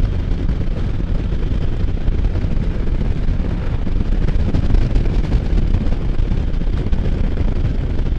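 Steady wind rush buffeting the helmet microphone while riding a Can-Am Spyder F3 three-wheeled motorcycle at cruising speed, with the engine's low drone underneath.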